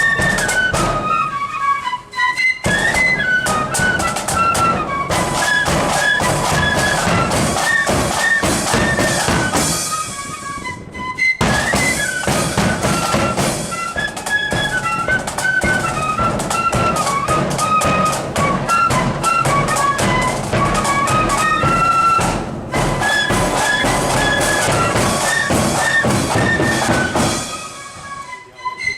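Marching flute band playing a tune in unison over snare and bass drums, with short breaks between phrases.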